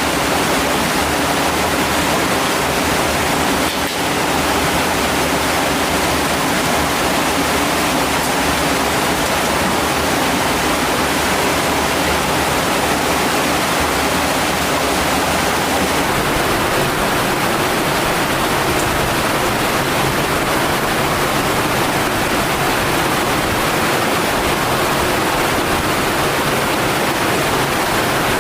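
Loud, steady rush of water from a mountain stream.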